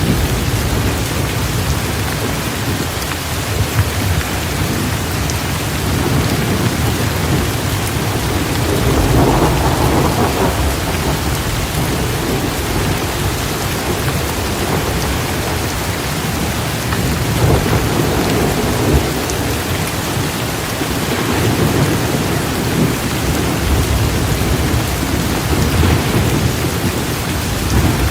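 Steady rain with low rolls of thunder that swell and fade a few times.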